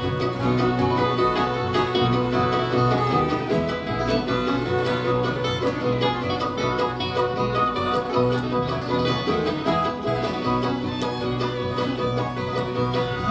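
Bluegrass band playing the instrumental intro of an up-tempo song: fiddle, guitar, mandolin and upright bass with quick plucked picking, at a steady, driving level.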